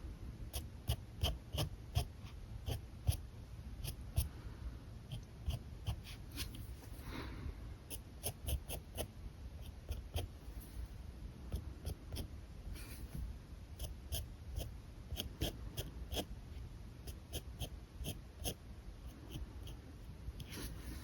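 Alcohol marker drawing on paper: many short, quick strokes and taps of the marker tip, heard as a steady run of small clicks and scratches.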